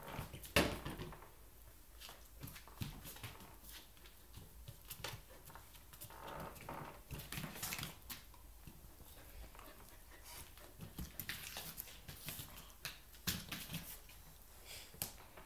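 A chow chow and a Samoyed play-fighting: irregular scuffling and knocks of paws and bodies, with a brief dog vocalisation about six and a half seconds in.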